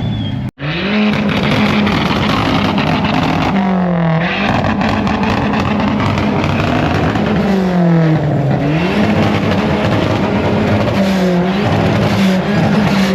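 Car engine held at high revs and revved hard, its pitch sagging and climbing back up three times. The sound cuts out for an instant about half a second in.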